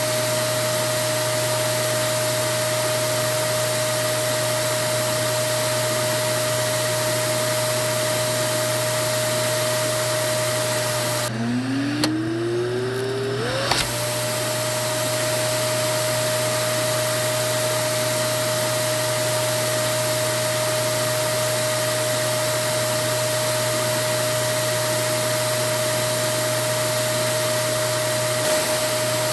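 Vacuum cleaner running steadily, a loud rushing hiss with a constant motor whine. About eleven seconds in, the hiss briefly drops away and the whine falls low. It climbs back up to its running pitch over about two and a half seconds.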